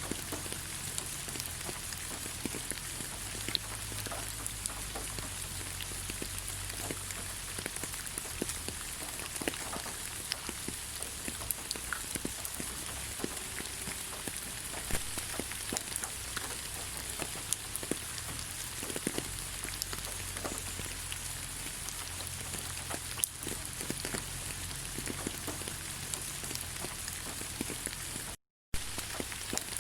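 Steady rain falling on leaves: an even hiss dotted with many separate drop taps, with a low rumble underneath. The sound cuts out for a split second about a second before the end.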